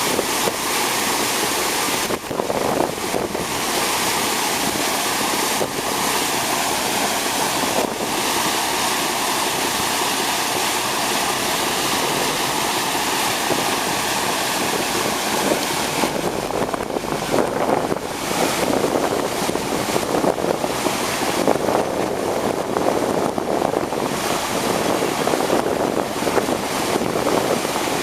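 Boat moving over water: a steady rush of water and wind on the microphone, with a faint steady whine that fades out about sixteen seconds in.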